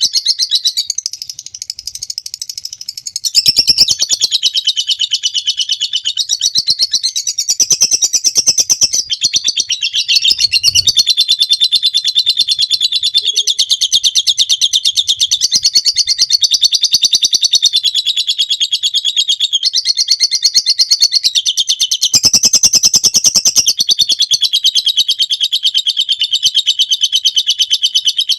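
A lovebird singing its long 'ngekek' song: a continuous, rapid, high-pitched chattering trill that runs on without a break, dipping softer for a couple of seconds near the start.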